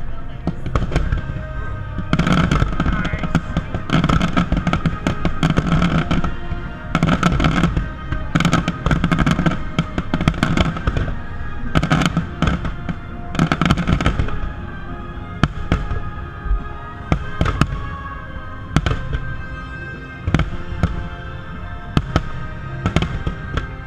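Aerial fireworks shells bursting in a rapid volley of sharp bangs, densest in the first half and thinning out toward the end, with music playing underneath.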